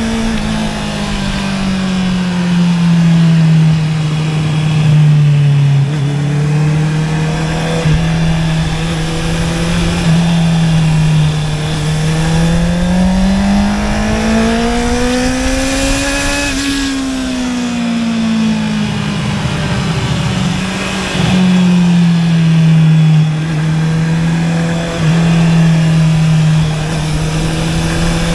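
Honda CB650R's four-cylinder engine through an Akrapovic exhaust, heard from the rider's seat: the note holds fairly steady, climbs gradually to a higher pitch about halfway through, then falls back and settles.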